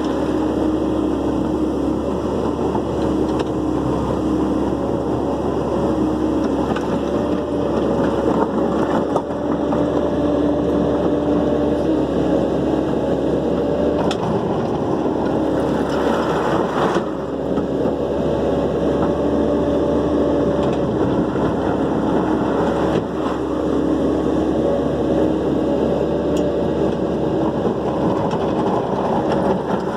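Dump truck engine running steadily at an even pitch, with a short hissing rush about halfway through.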